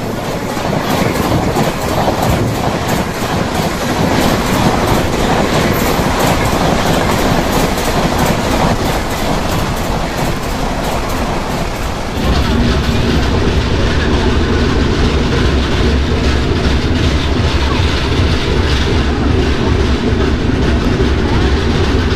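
Express passenger train running at speed, its wheels clattering over the rail joints. About halfway through, the sound turns into a deeper, heavier rumble with a steady hum.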